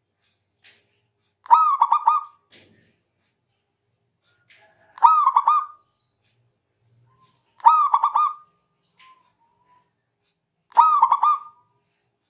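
Zebra dove (perkutut) singing its cooing song four times, each phrase a quick run of short notes lasting under a second, about three seconds apart.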